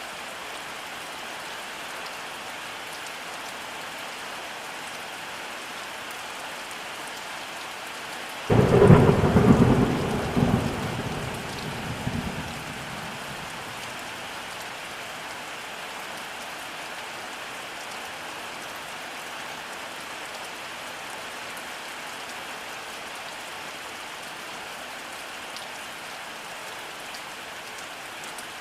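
Steady rainfall with a single clap of thunder about eight seconds in: a sudden crack that rolls on as rumbling and dies away over about four seconds.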